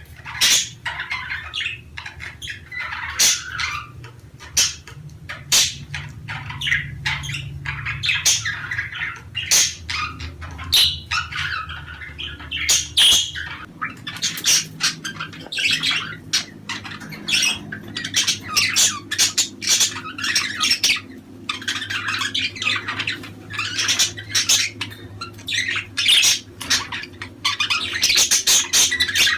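Budgerigars chattering and warbling continuously, with many sharp clicks and squawks, over a low steady background hum.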